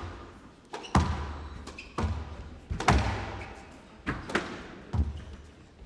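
Squash rally: sharp cracks of the ball struck by rackets and hitting the court walls, about one a second, each echoing briefly in a large hall.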